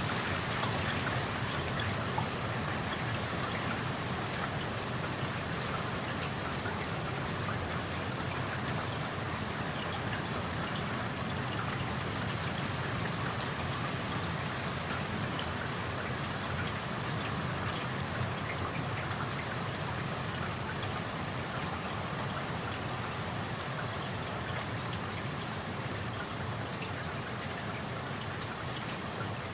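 Steady rain falling outside an open window, a dense even patter of raindrops on surfaces with a few sharper drip ticks, one about two seconds in and another about four and a half seconds in.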